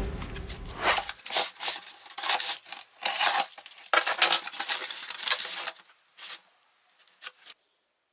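Unboxing handling sounds: packaging rustling and crinkling, with light clinks and knocks as containers are taken out and set down. A low hum stops about a second in, and the handling dies away after about six seconds, leaving a few faint clicks.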